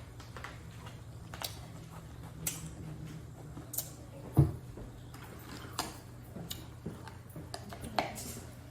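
Close-miked chewing and lip-smacking on a sandwich: scattered wet clicks and smacks over a steady low hum, with one louder thump about four and a half seconds in.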